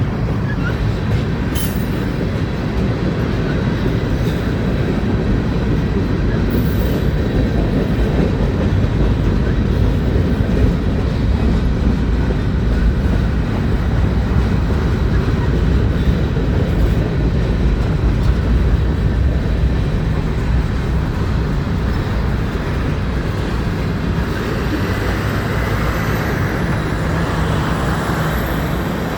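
Freight train cars rolling past, a steady loud rumble of steel wheels on rail. A faint high-pitched whine rises and dips in the last few seconds.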